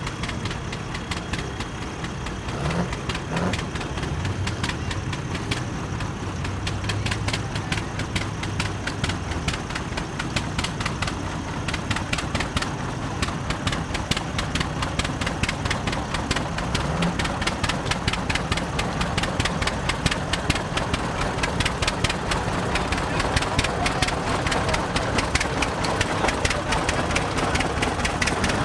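Antique tractor engines running, with a rapid, even beat of exhaust pulses over a low hum, growing a little louder toward the end.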